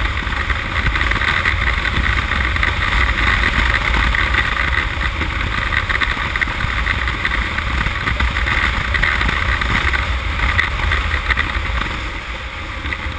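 Honda CM200T's small parallel-twin engine running steadily at road speed, with wind rushing over the microphone, getting a little quieter near the end. It runs smoothly without backfiring, now that the load on its nearly flat 6-volt battery has been cut.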